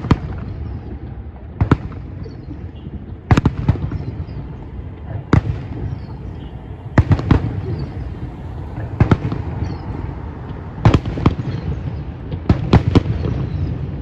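Aerial fireworks shells bursting: clusters of sharp bangs about every two seconds, over a steady low rumble.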